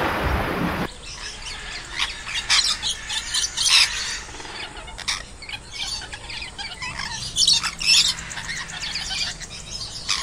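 Birds calling: many short, scattered chirps and squawks, some louder than others. In the first second, a louder noisy sound runs on and then cuts off abruptly.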